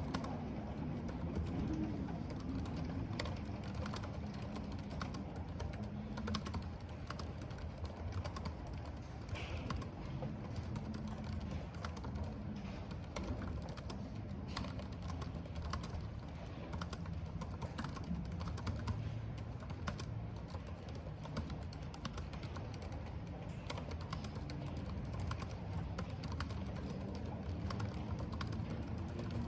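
Typing on a computer keyboard: a steady, irregular run of key clicks. Under it is a constant low rush of wind and rain.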